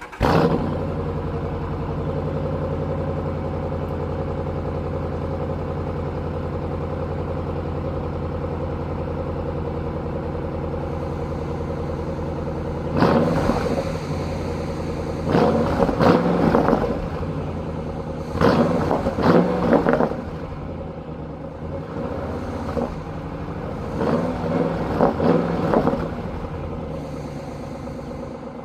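Dodge Durango R/T's V8 through its factory premium exhaust starting with a sudden loud flare, then idling steadily. From about halfway in it is revved in several short blips, dropping back to idle between them and at the end.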